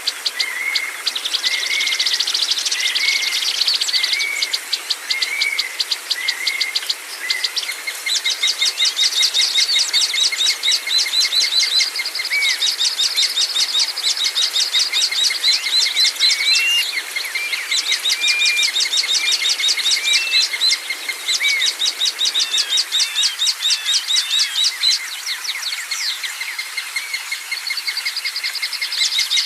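Several songbirds chirping and singing together. Early on, one repeats a short arched note about once a second. After that, runs of rapid high ticking notes last a few seconds each and stop and start again, over a thin steady high trill.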